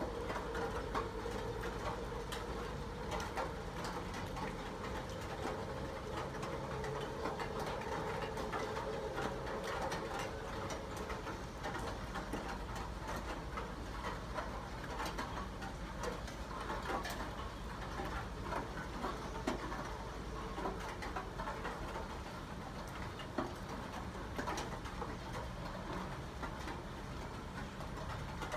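Steady rain falling, with many drops pattering and ticking on hard surfaces. A faint steady hum runs underneath for the first eleven seconds or so, then fades out.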